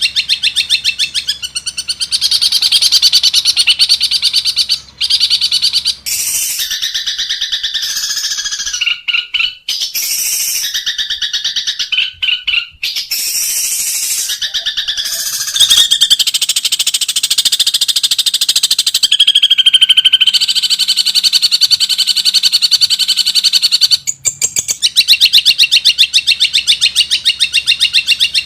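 Long-tailed shrike (cendet) singing a loud, fast song made of rapid trills and repeated chirps, much of it mimicked calls of other birds, switching abruptly to a new phrase every few seconds.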